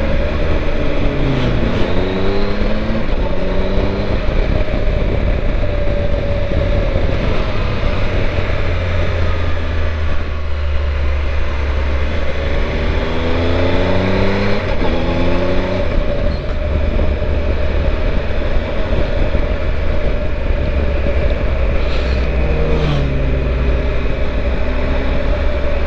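Triumph Tiger 1200 three-cylinder motorcycle engine running on a mountain descent, its pitch stepping and gliding through gear changes and rev changes about three times, under steady wind rush on the microphone.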